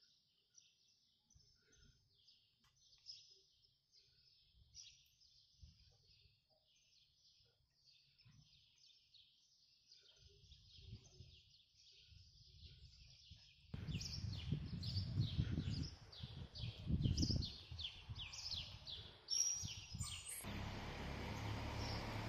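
Small birds chirping rapidly and without pause. About two-thirds of the way through, a louder low rumble comes in gusts over them, and near the end it gives way to a steady rushing noise.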